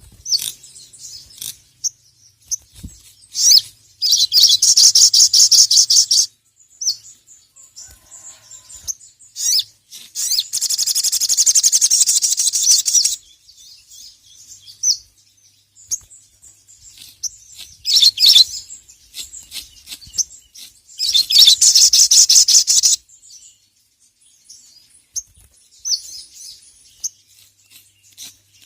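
A sogok ontong (sogon, little spiderhunter) singing: scattered sharp high chirps broken by long runs of rapid repeated notes, each lasting two to three seconds, about 4, 10 and 21 seconds in, with a shorter run near 18 seconds.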